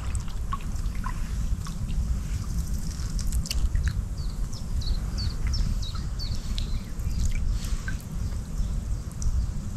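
Small birds calling, a run of quick high chirps each gliding downward, through the middle of the stretch, over a steady low rumble and light water dripping and trickling.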